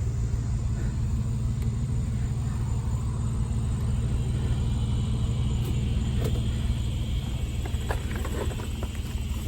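Vehicle engine idling with a steady low rumble, and a few light clatters in the last few seconds.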